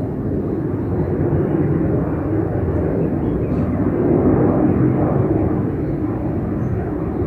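Airliner's engines heard from the ground during its takeoff climb: a steady, loud rumble that swells slightly about four seconds in.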